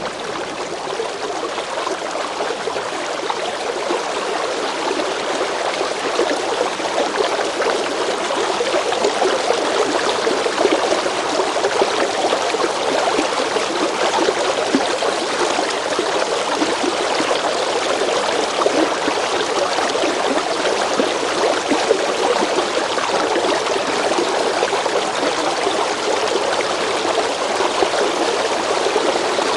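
River water flowing steadily over rocks, a continuous splashing and gurgling rush.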